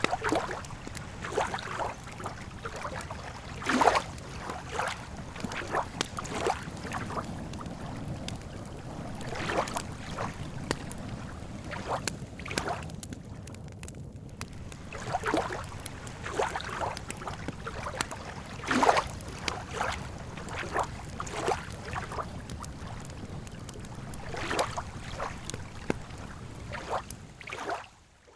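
Lakeside campfire ambience: irregular short pops and crackles and small slaps of lapping water over a steady low rumble. The sound drops away briefly at the very end.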